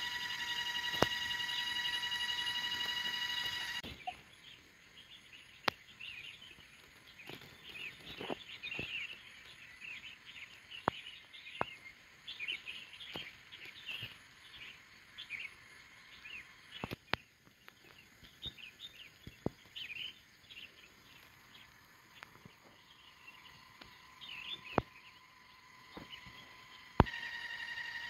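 Small birds chirping and twittering in short scattered calls, with a few sharp clicks here and there. For the first four seconds, and again near the end, a steady high buzz with a rapid flutter sounds over them.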